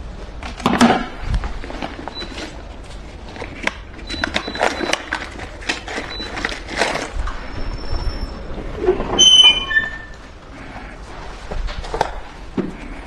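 Rustling, clicks and knocks of someone handling things and moving about, with a brief run of high tones stepping down in pitch about nine seconds in.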